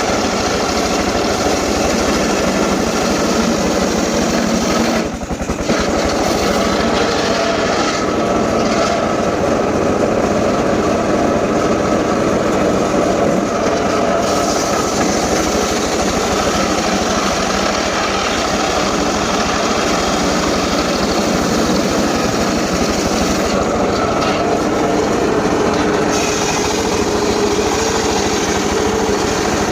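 Engine-driven saw running continuously while cutting wood, with a brief dip in level about five seconds in.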